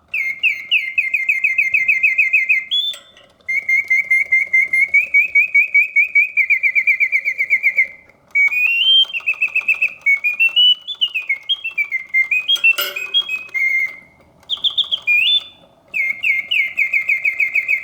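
Vintage Reuge double singing bird cage singing: its bellows-driven whistle gives rapid warbling trills and rising and falling gliding runs, in phrases with short gaps between them. The mechanism behind the song runs smoothly and quietly, with one sharp click about two-thirds through.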